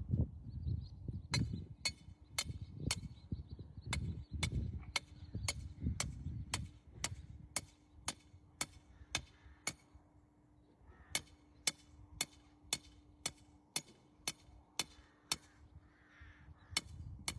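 Repeated sharp hammer blows, about two a second with a brief pause midway, driving a rain gauge's stake into hard, dry, cracked ground.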